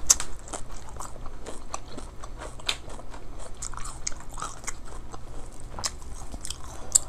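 Close-miked chewing of fried tofu (tokwa), with irregular sharp crunching clicks.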